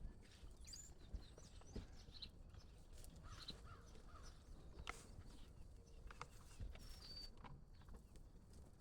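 Faint farmyard ambience: scattered soft knocks and clicks, with a few brief high chirps.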